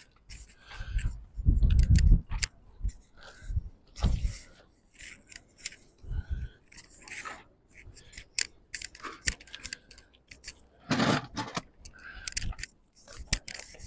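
Irregular clicks, scrapes and short rubbing sounds of hand work on a truck being detailed, with a few heavier low thumps about two seconds in.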